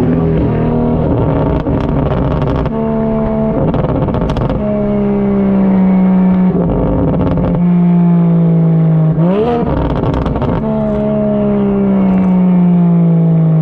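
BMW 335i N54 straight-six with a big single-turbo conversion and catless downpipe, driven through the gears. The engine note holds steady and steps in pitch between short noisy stretches. A quick rise and fall comes about two-thirds through, and a long falling note as the car slows near the end.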